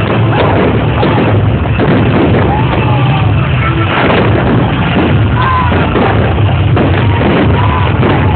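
New Year fireworks display going off: a dense, continuous barrage of bangs and crackling with no pause.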